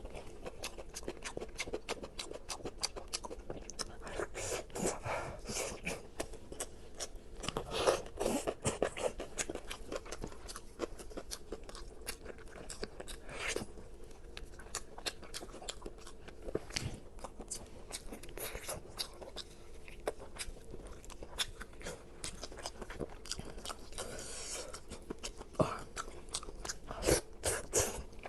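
Crunchy food being bitten and chewed: a steady run of sharp crunches, with louder bites about 8 seconds in, about 13 seconds in and near the end.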